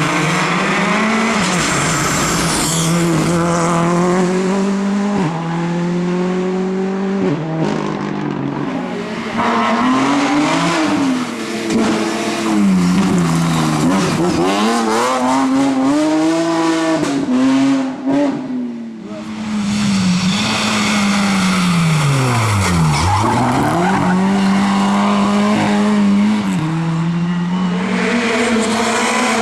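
Rally cars at full throttle on a special stage, engines revving up and dropping back in steps through gear changes. Tyres squeal in the corners, and about 23 seconds in an engine note falls sharply as a car passes close by.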